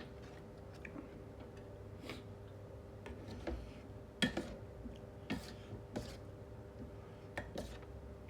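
A person eating: scattered soft clicks and smacks of chewing and utensil taps, the sharpest about four seconds in, over a faint steady hum.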